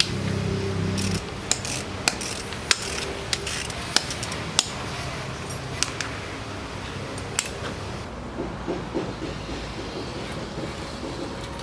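A low steady hum that stops about a second in, followed by a run of about ten sharp, irregular knocks and clicks, like hard objects or tools being handled.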